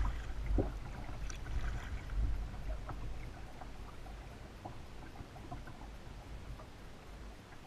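Water sounds around a paddled kayak: small splashes and drips against a steady low rumble. A sharp knock comes right at the start.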